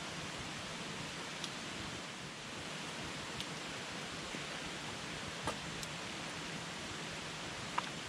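Wood campfire burning with a steady hiss and a few sharp crackling pops, the loudest near the end.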